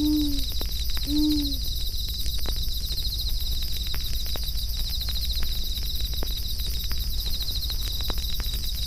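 An owl hoots twice in quick succession, each hoot short and slightly falling in pitch. Under it, night insects chirr steadily in a fast pulse, and a campfire crackles with scattered sharp pops.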